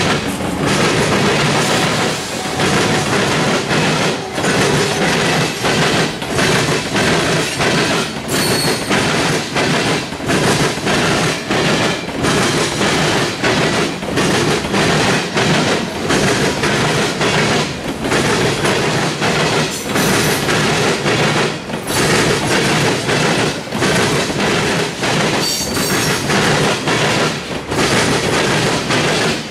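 Loaded freight cars of a CSX trash train rolling past close by: steel wheels clatter over the rail joints with a beat about every two seconds, and a brief high wheel squeal comes twice.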